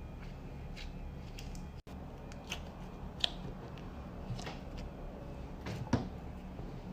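Slime being squished and poked by hand: scattered small clicks and pops over a steady low hum.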